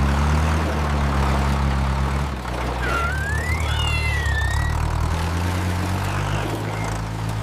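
Vehicle engine sound effect: a steady low, layered engine hum under a broad hiss. A short whistle-like tone rises and then falls about three to four and a half seconds in.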